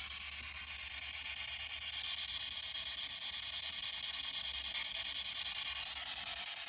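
Spirit box (ghost box) sweeping through radio stations at its fastest rate, giving a steady rush of radio static.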